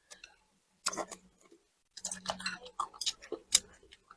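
Close-up eating sounds: chewing and mouth clicks in short, irregular bursts, busiest in the second half.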